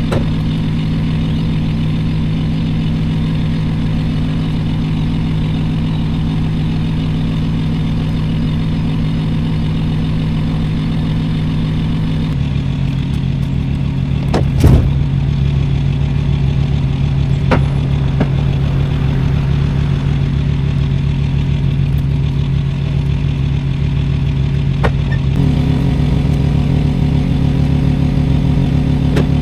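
Semi truck's diesel engine running steadily, its hum dropping slightly in pitch about twelve seconds in and growing fuller near the end, with one sharp knock about fifteen seconds in.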